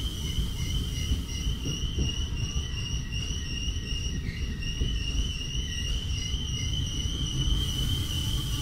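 Steady low rumble of a moving train, heard from inside the carriage, with a thin steady high whine over it.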